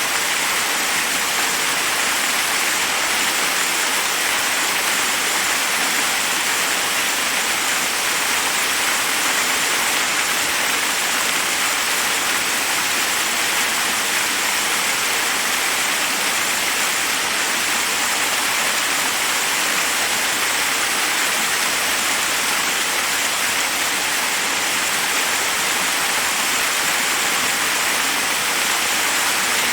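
Waterfall: a steady rush of water cascading over rocks, unchanging.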